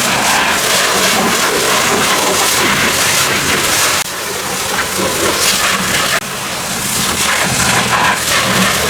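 Pressure washer jet spraying water hard onto a car body: a loud, steady hiss of spray over a low hum, dropping abruptly about four and six seconds in as the spray shifts, then building back.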